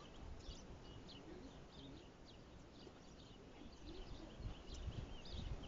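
Faint small-bird chirps, short and high, repeating many times over a low steady background.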